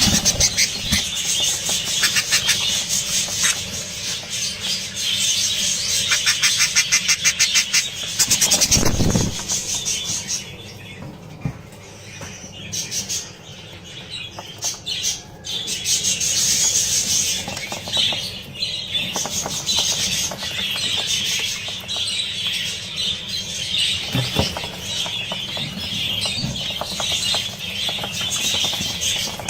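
Budgerigar chicks calling: a constant, high-pitched chatter of rapid squeaky pulses, with a low thump about nine seconds in and a quieter lull for a few seconds after it before the calling picks up again.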